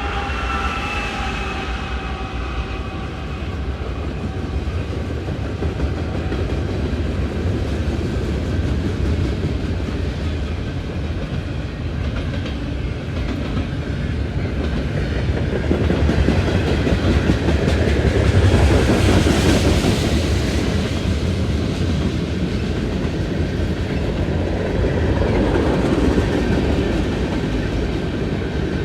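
Freight train passing at speed: a steady, loud rumble of locomotives and freight cars with wheels clicking over the rails, swelling around the middle. The end of a locomotive horn fades out in the first second or two.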